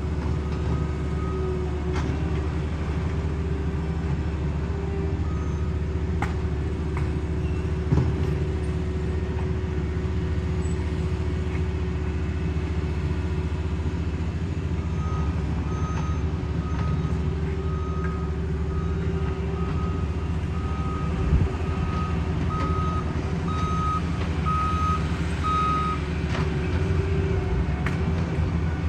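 Heavy road-paving equipment engines running steadily, with a reversing alarm beeping a little faster than once a second through the second half as a machine backs up. A couple of short knocks stand out, about a third of the way in and again later.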